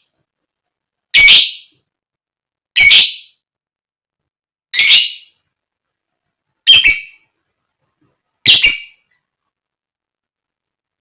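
A female fighter lovebird giving loud, harsh squawking calls: five separate calls about two seconds apart, each about half a second long.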